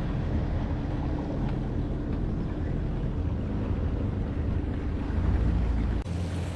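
Personal watercraft (WaveRunner) engine running steadily on the water, with wind on the microphone. It swells about five seconds in, and the sound changes abruptly near the end.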